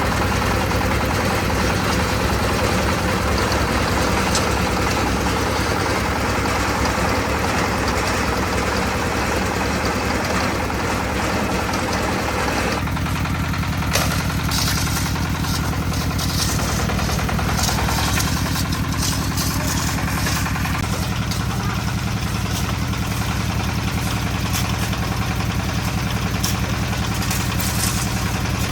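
Concrete mixer's engine running steadily. Its note changes about halfway through, and from then on there are frequent short knocks and rattles over the drone.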